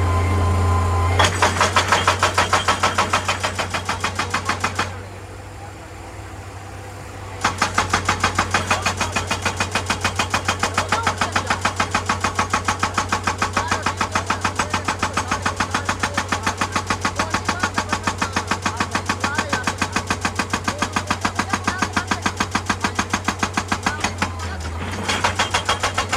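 Excavator-mounted hydraulic rock breaker hammering on rock in rapid, evenly spaced blows, several a second, over the steady hum of the excavator's diesel engine. The hammering stops for about two seconds early on, then runs again until near the end.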